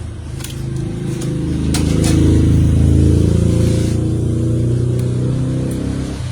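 A motor vehicle's engine rumbling as it passes, swelling to its loudest two to three seconds in and fading away near the end.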